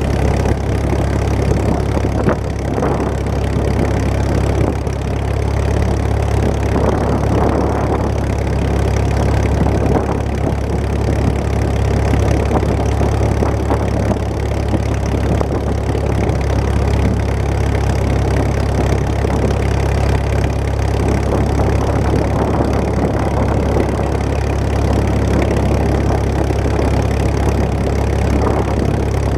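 Engines of antique farm tractors running steadily at low speed, a continuous low rumble.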